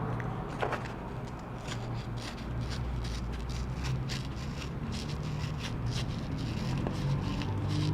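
Small clicks and light scraping of hand tools working on a laptop's insides, many short ticks over a steady low hum.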